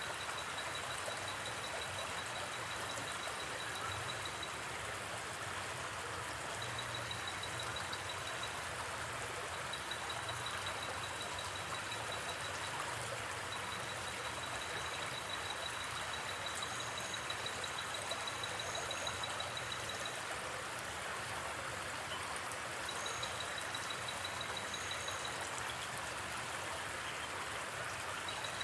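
Steady rush of a flowing river, with an insect's high pulsing trill coming in runs of a few seconds. A few short, higher chirps sound in the second half.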